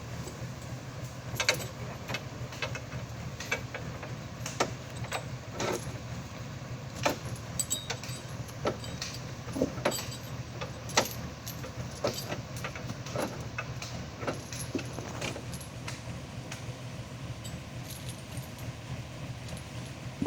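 Old army 4x4 truck running with a steady low engine hum, with loose metal parts clinking and rattling irregularly over it.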